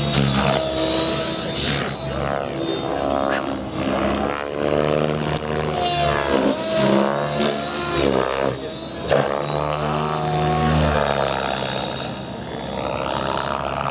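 Radio-controlled 3D helicopter in flight, its rotor and motor pitch rising and dipping again and again as it is thrown through aerobatic manoeuvres.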